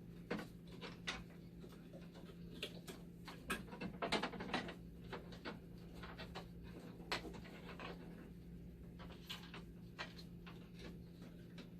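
Irregular small clicks and knocks of parts and connectors being handled and fitted inside a dialysis machine, over a steady low hum.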